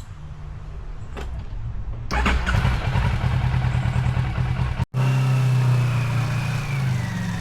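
Motorcycle engine running low and steady, then suddenly louder about two seconds in. The sound cuts out completely for an instant just before five seconds, then the engine carries on with a steady low note.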